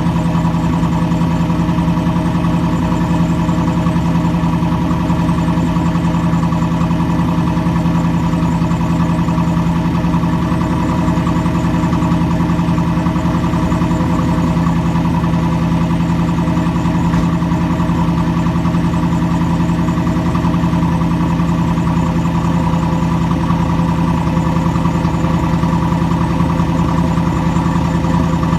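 Chevy 350 small-block V8 idling steadily through a Flowmaster 40 Series muffler with no catalytic converters, a loud, even exhaust note.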